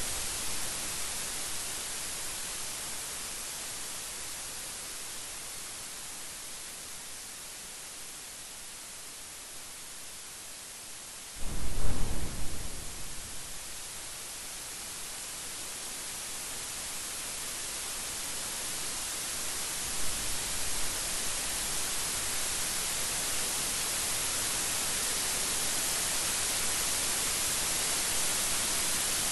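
Steady rain hissing, then about a third of the way in a sudden loud thunderclap that rumbles away over a couple of seconds. A fainter rumble of thunder comes about two-thirds of the way through.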